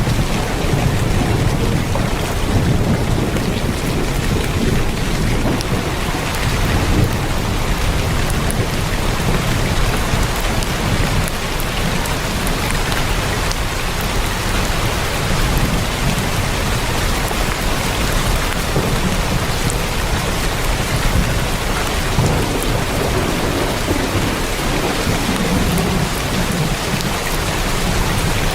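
Heavy rain drumming steadily on a tin roof, with a low, wavering rumble underneath.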